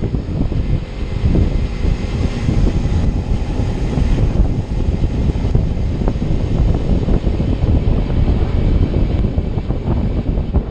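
Kawasaki Ninja 300's parallel-twin engine running while the motorcycle is ridden, mixed with heavy wind rumble on the microphone.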